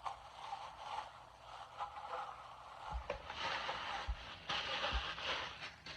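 Rustling and crinkling of packaging as vacuum parts are unwrapped and handled. Three soft thuds land about a second apart in the second half.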